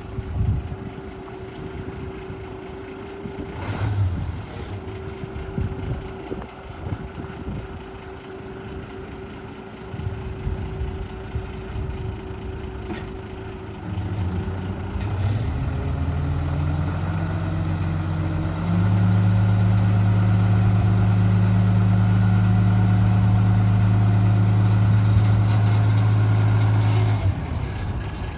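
Mitsubishi Fighter dump truck's 6D15 six-cylinder diesel engine idling. About halfway through it speeds up in steps, then holds a louder, steady higher speed for about eight seconds before dropping back to idle near the end.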